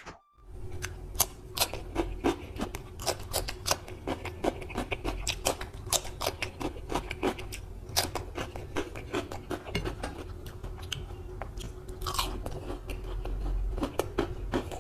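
Close-miked chewing of a spicy curry and rice meal eaten by hand: a dense run of wet mouth smacks and crunchy clicks, starting about half a second in. A faint steady hum lies underneath.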